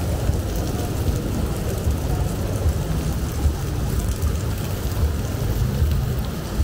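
Steady rain falling, a fine hiss of drops, over a constant deep rumble.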